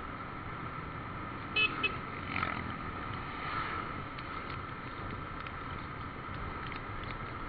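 Two short vehicle horn toots, one right after the other, about a second and a half in, over steady road noise from riding.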